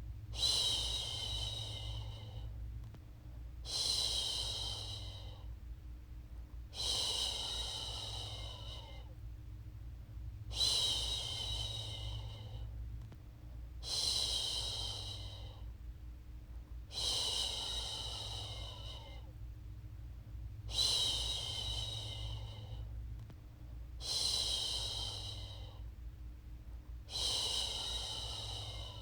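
A woman's voice shushing a long, hissing "shhh" to soothe a baby to sleep, repeated about every three seconds. Each shush starts sharply and trails off. A faint steady low hum runs underneath.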